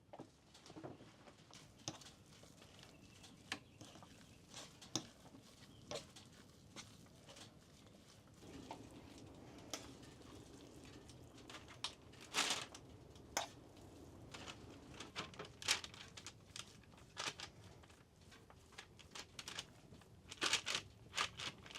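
Irregular light taps and clicks, spaced unevenly, with a few sharper knocks about halfway through and near the end, over a faint steady hiss.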